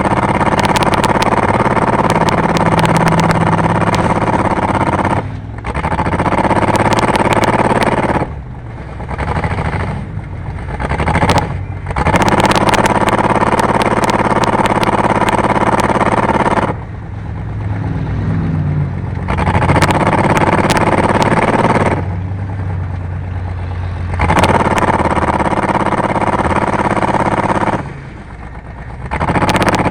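Race car engine running at high revs under hard throttle, dropping back sharply several times and picking up again, with rattling clatter.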